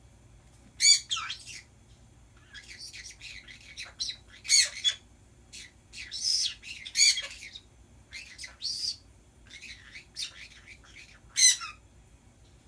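Pet birds chattering and squawking in irregular bursts, with a few loud, sharp screeches among the chatter.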